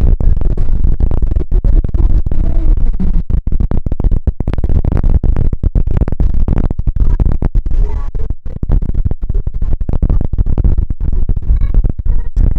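Gusty wind buffeting the microphone: a loud, rumbling low roar that keeps cutting in and out, with faint music underneath.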